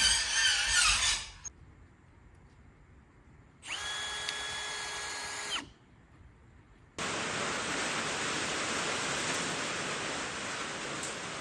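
Power tool cutting lattice, its motor pitch wavering under load, stops about a second in. About four seconds in a motor gives a steady whine for about two seconds, and from about seven seconds on there is a steady hiss of heavy rain.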